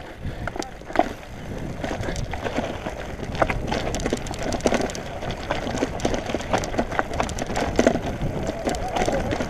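Mountain bike rolling fast over rough, stony singletrack: tyres crunching on loose gravel and rocks, with frequent irregular clatters and knocks from the bike, over a steady low rumble of wind on the microphone.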